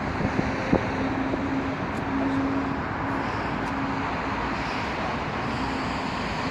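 Steady outdoor rumble of road traffic with wind buffeting the microphone. A low hum comes and goes through it.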